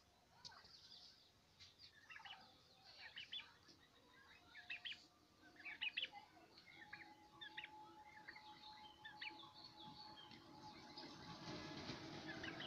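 Faint, scattered bird chirps from farm fowl: many short, high calls in irregular clusters over a faint steady hum.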